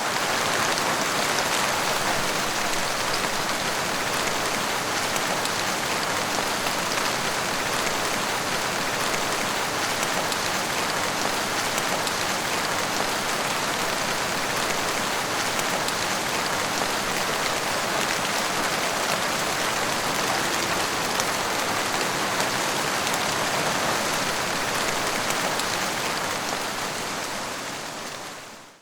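Steady, heavy rain falling on a surface, a dense, even hiss flecked with countless drop taps. It fades out over the last second or so.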